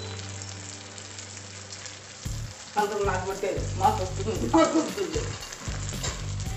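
Stuffed brinjals frying in oil in a pressure cooker pan, with a steady sizzle and stirring or handling of the pan. It gets louder a little over two seconds in.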